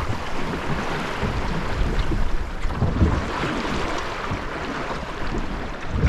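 Strong wind buffeting the microphone over the steady rush and splash of waves around a small sailing canoe's hull.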